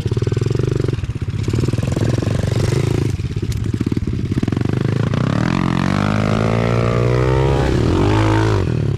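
Small single-cylinder four-stroke pit bike engines running on a trail ride; from about five seconds in, the engine pitch swings up and down repeatedly as the throttle is opened and closed.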